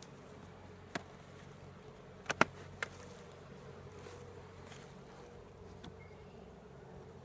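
Honey bees buzzing steadily around an open hive, with a few short sharp knocks, the loudest a pair about two and a half seconds in.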